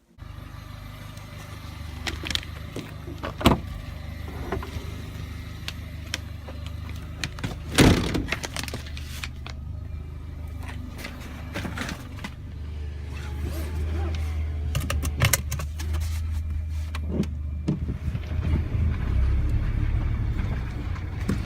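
Car engine running with a steady low hum that grows louder about thirteen seconds in, with a few sharp knocks, the loudest about eight seconds in.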